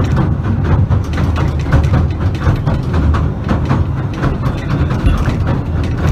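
Southend Pier train running along the pier, heard from inside the carriage: a steady low rumble with a continual clatter of knocks and rattles.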